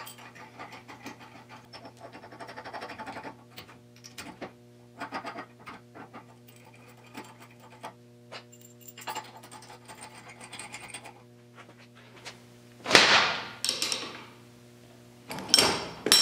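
Small metal parts and washers clinking and scraping as a bearing separator and puller are fitted to the hub, with two louder metal scraping bursts near the end, over a steady low hum.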